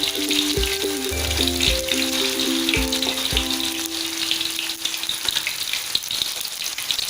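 Food sizzling steadily as it fries in hot oil, with a dense crackle throughout. Background music plays over it for the first four seconds or so, then stops.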